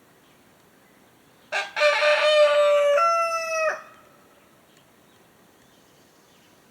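A rooster crowing once: one long call of a bit over two seconds that steps up in pitch near its end.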